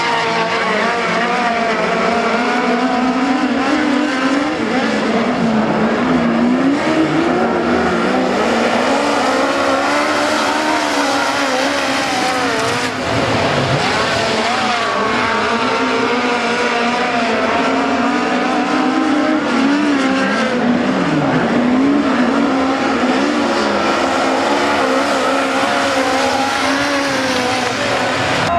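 A pack of midget race cars at racing speed, with several engines heard at once, their pitch rising and falling over and over as the cars accelerate and back off around the track.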